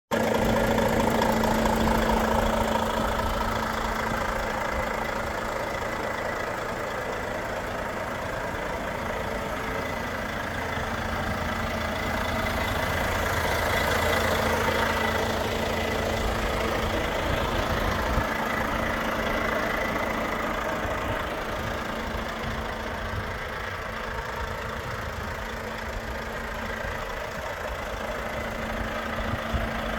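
Volvo FH 460 truck's 13-litre six-cylinder diesel engine idling steadily.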